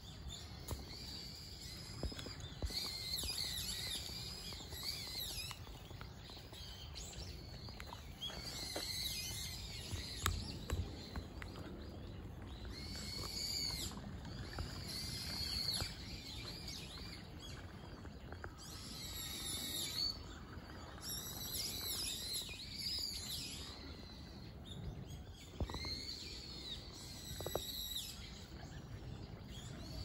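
Wild birds chirping and calling in short bursts every few seconds over a steady low rumble, with a few faint knocks.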